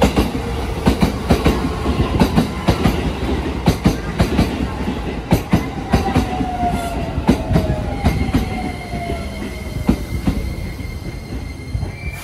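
Shin-Keisei N800 series electric train pulling in and braking along the platform: repeated clacks of wheels over rail joints, with a falling electric whine as it slows. A steady high tone comes in about two-thirds of the way through.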